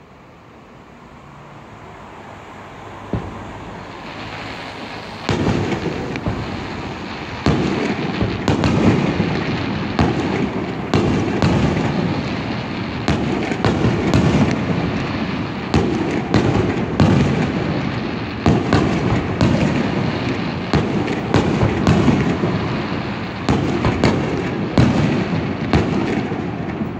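Aerial fireworks bursting: a single bang about three seconds in, then from about five seconds in a dense run of booms and sharp bangs in close succession.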